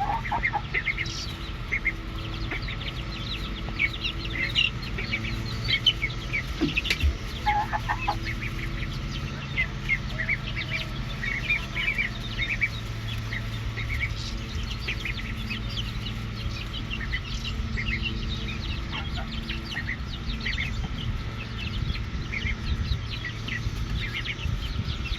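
Backyard chickens clucking softly at intervals while they feed on a large batch of live cicadas.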